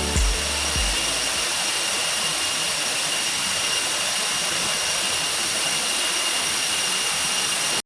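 Waterfall pouring, a steady, even rushing noise; a music beat stops in the first second.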